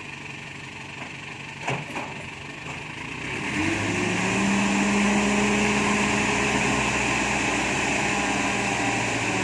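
Mini excavator's diesel engine running low, then revving up about three and a half seconds in and holding at a steady higher pitch, with a single knock a little before two seconds in.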